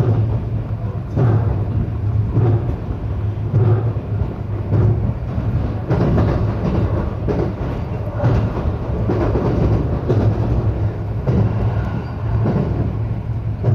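Local electric train running at speed, heard from inside the carriage: a steady low running hum and rolling noise, with the wheels clacking over rail joints about once a second.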